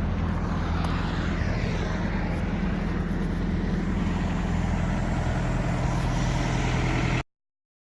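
Steady engine drone and road noise inside a moving vehicle, cutting off abruptly about seven seconds in.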